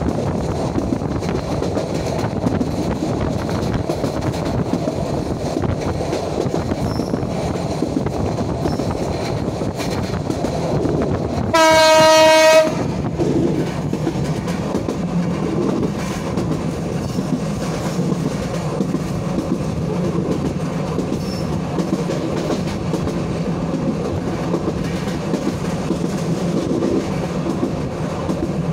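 Moving passenger train heard from inside a coach: a steady rumble and rattle of wheels on the track, with a single train horn blast of about a second near the middle.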